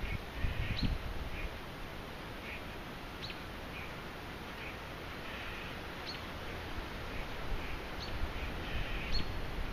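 Birds chirping: short, high single calls repeated every second or two, over a steady outdoor rush, with a few gusts of wind buffeting the microphone in the first second.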